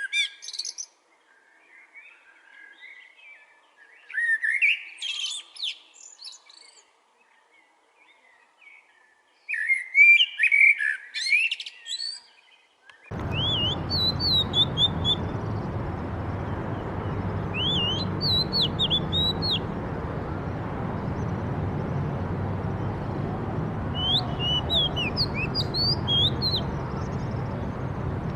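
Songbirds singing three loud, warbled song phrases a few seconds apart. About 13 seconds in, it switches abruptly to another recording with a steady background noise and repeated short, high chirps.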